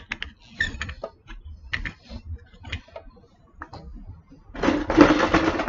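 Plastic building bricks clicking as they are handled and pressed together, in scattered light taps, with a longer, louder clatter near the end.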